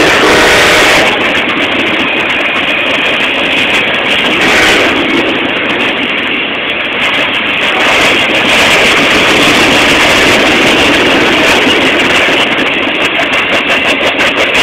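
A freight train passes close by. A diesel locomotive's engine runs briefly at the start, then loaded freight cars (tank cars, hoppers and a boxcar) go by with a loud, steady noise of wheels rolling on the rails. Near the end the noise pulses quickly and rhythmically.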